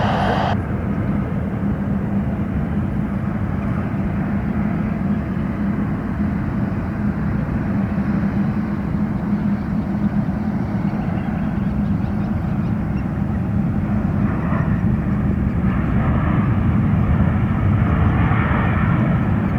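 Jet airliner engines running, a steady rumble with a constant hum, growing a little louder in the last few seconds.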